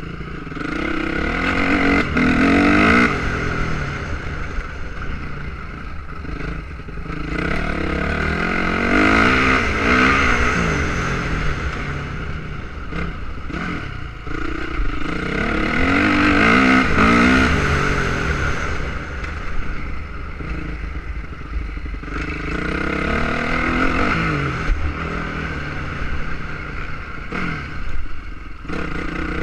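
Motocross dirt bikes running on a track, their engines revving up and down through the gears. The bikes swell loud as they pass about four times, roughly every seven seconds.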